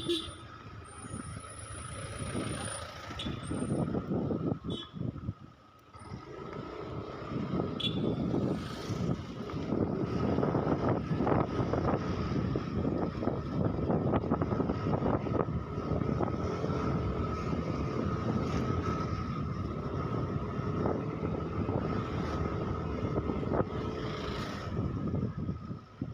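Motorcycle ride through town traffic: engine and road noise with other vehicles around, under a thin steady whine.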